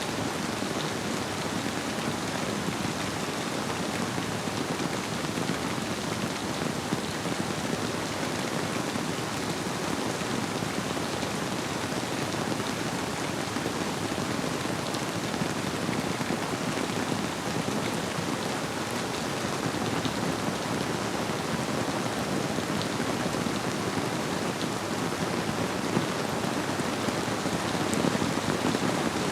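Steady rainfall, an even hiss with scattered drop ticks, blended with the flow of a river.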